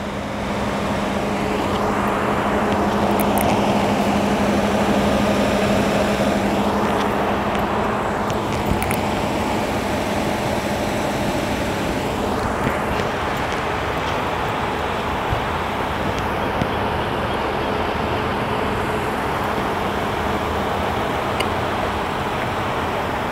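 2018 Ford Edge Titanium idling, heard close at the front of the car as a steady hum over a rushing noise.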